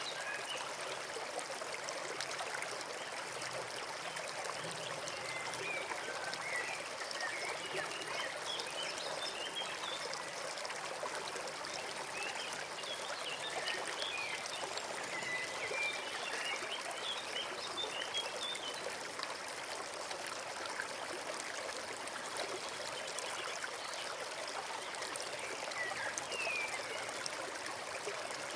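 Forest stream running and trickling steadily, with small birds chirping briefly now and then, mostly in the middle and again near the end.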